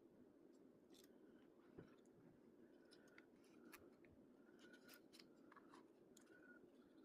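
Near silence: a faint steady room hum with scattered light clicks and scrapes.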